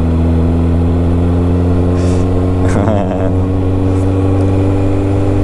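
Suzuki GSX650F inline-four engine running steadily at an even cruising speed, its pitch holding nearly constant. There is a brief hiss about two seconds in.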